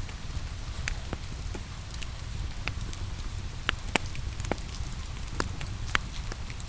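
Wood fire crackling, with irregular sharp pops about once or twice a second over a steady low rumble, mixed with a steady hiss of rain.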